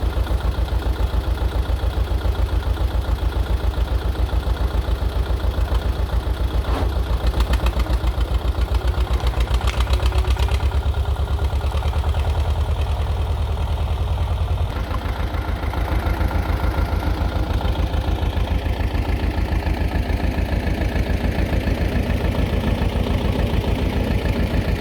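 Two-cylinder air-cooled diesel of a T-16 tractor running with a steady, even chug. Its note dips briefly and shifts about fifteen seconds in, then carries on.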